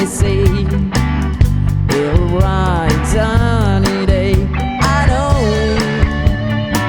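Rock band playing an instrumental break: an Epiphone Les Paul electric guitar plays a lead line with string bends over bass guitar and a steady drum beat.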